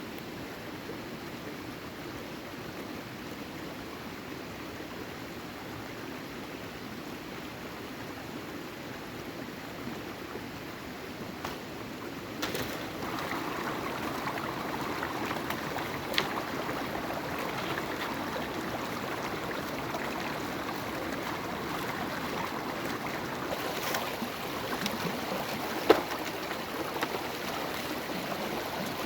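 Water running steadily, which gets louder about halfway through, with a few sharp knocks.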